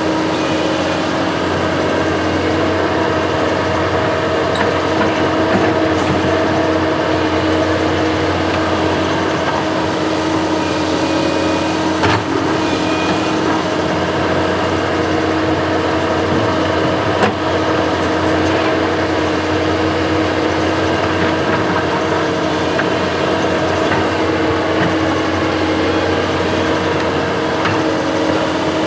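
Construction machine's engine running steadily at a constant speed, with two sharp knocks, about twelve and seventeen seconds in.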